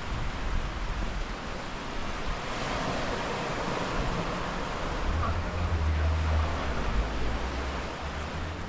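Sea waves washing against the shore with wind buffeting the microphone. A low steady hum joins about halfway through.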